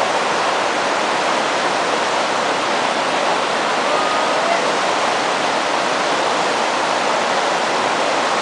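A fast-flowing river rushing, as a steady, loud, even roar of water.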